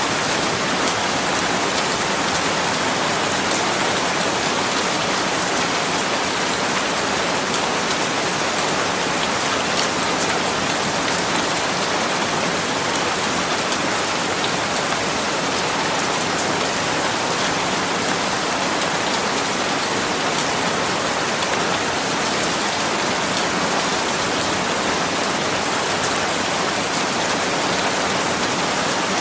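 Steady rain falling and pattering on a surface, a dense even hiss with fine scattered drop ticks.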